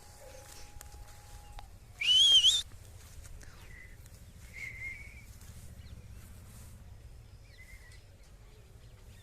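A loud, rising whistled call about two seconds in, followed by three much fainter short whistled notes, over a low outdoor background.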